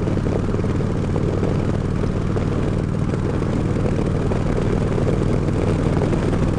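Harley-Davidson Road King's V-twin engine running steadily at road speed, with wind rushing over the helmet microphone.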